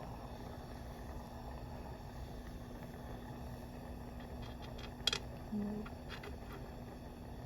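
Jeweler's soldering torch hissing steadily while heating flux and hard solder chips on a brass disc, with a sharp click about five seconds in.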